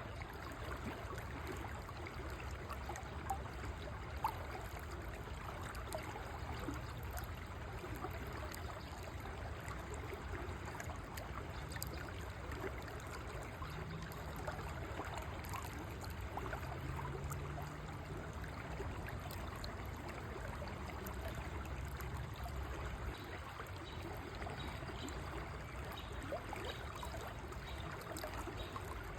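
River water flowing: a steady rushing and trickling with a low rumble underneath.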